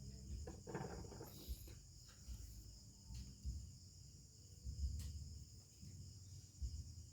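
Crickets chirping steadily in a high-pitched chorus, with scattered faint knocks and a sharp click about five seconds in from hands working on a speaker.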